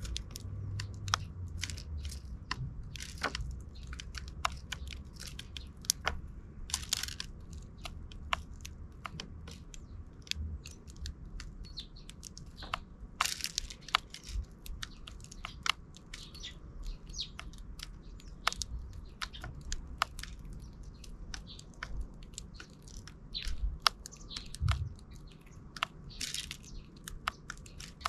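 Sparrows pecking at seed: a dense, irregular patter of small sharp clicks and cracks, with a few short chirps.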